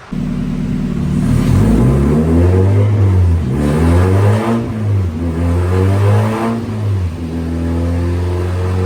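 Mazda Miata four-cylinder engine running under load on a chassis dyno, its pitch rising and falling, dipping briefly, then climbing slowly again. This is a tuning run made after the airflow-meter spring was tightened to lean out a rich mixture.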